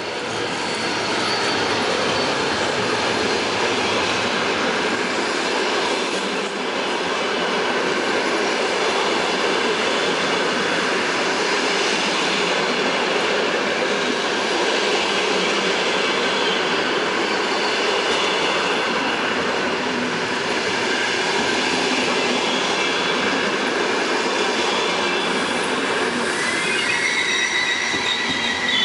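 Locomotive-hauled passenger train passing close by: a loud, steady rumble of wheels on rails that carries on throughout, with high wheel squeal coming in near the end.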